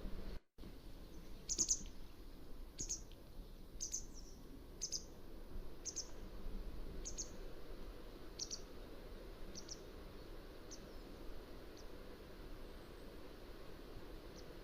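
Mountain wagtail calling: a run of short, high chirps about once a second, growing fainter after about ten seconds, over a steady background hiss. The sound drops out completely for a moment near the start.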